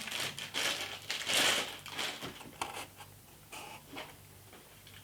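Plastic packaging rustling and crinkling, with a few light clicks and knocks, as a welder's chipping hammer is unwrapped and handled.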